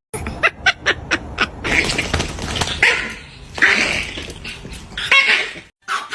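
Dog barking about four times, each bark rough and loud, after a quick run of sharp clicks.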